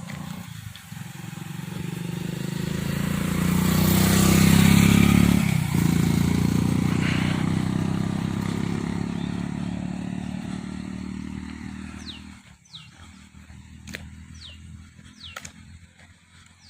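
A motor vehicle passing by: its engine grows louder to a peak about five seconds in, drops in pitch, and fades away. A few short bird chirps follow near the end.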